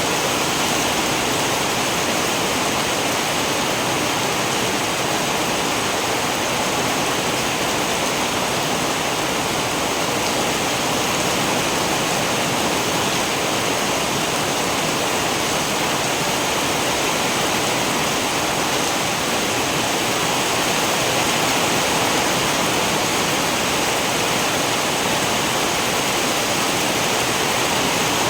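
Steady heavy rain, a dense even hiss of falling water with no distinct drops or thunder.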